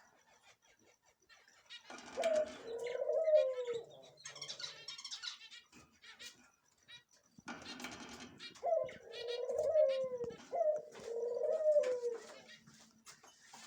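Caged birds calling: three phrases of low, curving calls that rise and then fall in pitch, each begun by a short rustling burst, with a few higher chirps between the first and second phrase.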